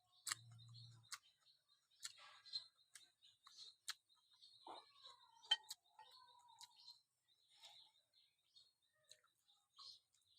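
Near silence with faint scattered clicks and taps, and a brief low hum about a second long near the start.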